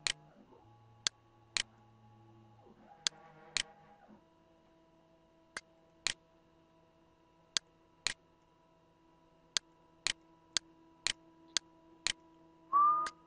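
Sharp, regular ticking on a steady beat of about two a second, with some beats missing and some ticks doubled, over faint steady tones. A brief rising tone comes near the end.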